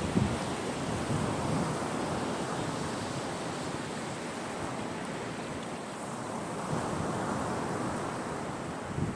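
Sea waves washing steadily onto the shore, a continuous rush of surf. Wind buffets the microphone briefly at the start and again near the end.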